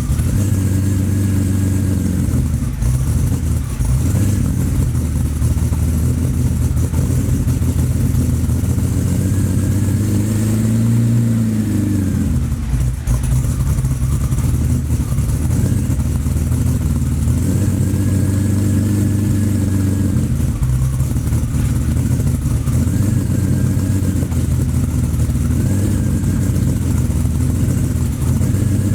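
BMW E31 850's V12 engine running steadily as it warms up after a cold start, with a brief rise and fall in revs about ten seconds in.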